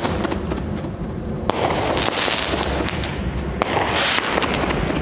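Winda Avalanche 16-shot 200-gram consumer firework cake firing: four sharp bangs in quick succession, some followed by a burst of hissing crackle.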